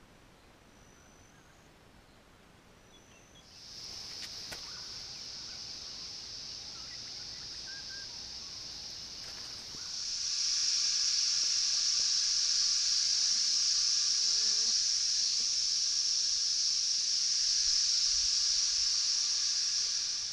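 Steady insect chorus, a continuous high-pitched drone. It is faint at first, comes in about three and a half seconds in, and grows much louder near the middle, where lower buzzing bands join it.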